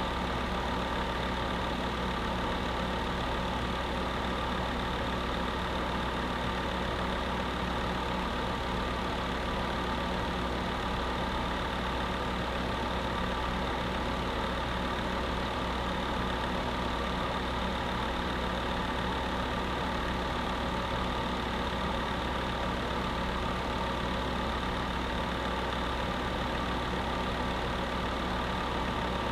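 Space heater running steadily: an even fan whir with a constant motor hum, unchanging throughout.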